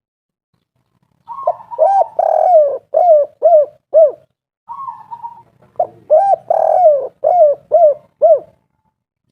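Spotted dove cooing: two song phrases, each opening with a soft rolling note and followed by a string of arched coos that end in short, clipped 'kuk' notes, the 'kuk 3' song type.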